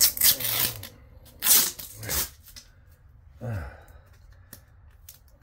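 A few short scraping, rustling noises as the insulation and windings of a large transformer are picked and scratched at, to check whether the windings are aluminum or copper.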